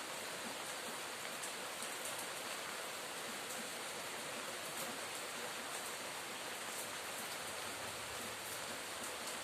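Summer rain falling steadily: an even hiss with faint scattered ticks of individual drops.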